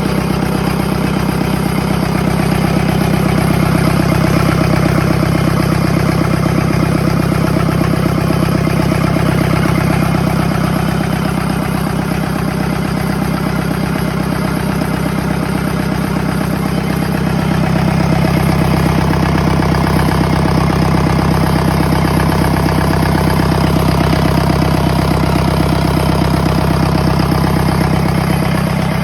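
Excavator engine idling steadily with a deep hum, getting slightly louder a little past halfway.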